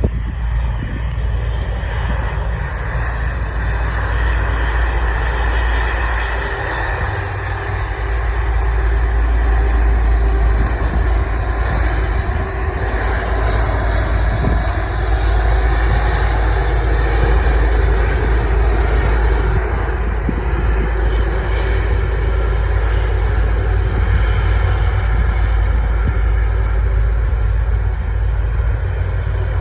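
Jet airliner engines running loud and steady, with a heavy low rumble. The sound grows louder about a third of the way in.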